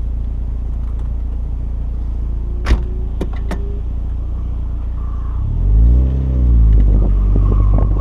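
Car engine with a steady low rumble, a sharp click a little before the middle, then a rev that rises and falls in pitch about two-thirds of the way in, after which the engine runs louder.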